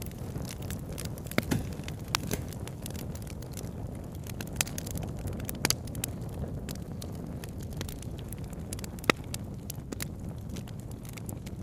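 Campfire crackling: scattered sharp pops and snaps of burning wood, the loudest about nine seconds in, over a steady low rush.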